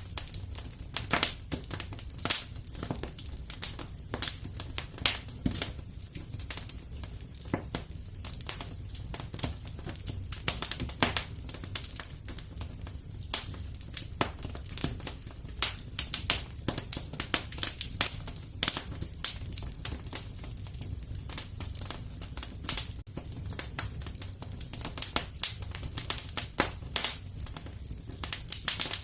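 Fireplace fire crackling: dense, irregular sharp pops and snaps over a steady low rumble.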